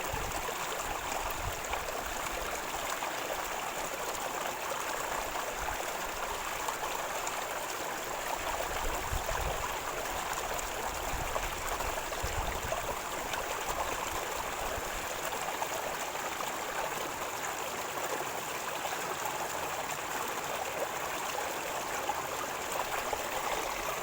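River water flowing and gurgling steadily over stones, with a thin steady high hiss running above it.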